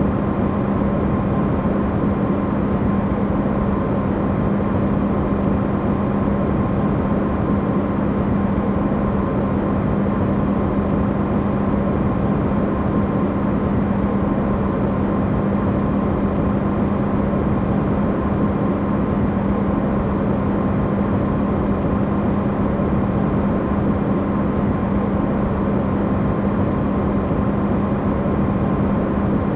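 Refrigerator running, its sound recorded amplified: a steady, unchanging hum with one strong low tone and a fainter higher tone over an even rushing noise.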